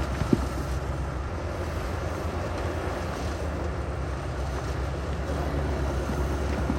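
Heavy diesel construction machinery running steadily with a deep low drone, with a brief knock about a third of a second in.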